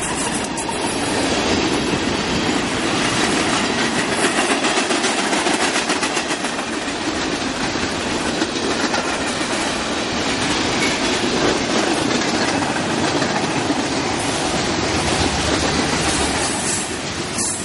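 Freight cars (tank cars and covered hoppers) of a mixed freight train rolling past: steel wheels clicking over the rail joints in a quick, continuous clickety-clack over a steady rolling rumble and rattle.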